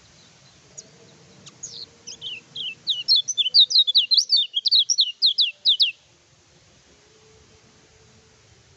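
Kecial kuning, a yellow white-eye, singing a rapid chattering phrase of high, down-slurred notes, about five a second. The phrase builds up from about a second and a half in and stops abruptly about six seconds in.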